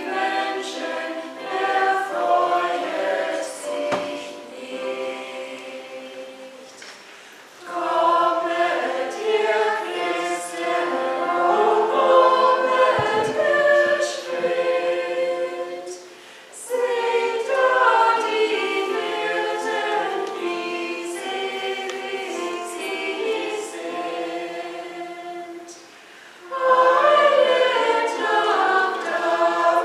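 Church choir singing in several voices, phrase by phrase, with short pauses between the phrases.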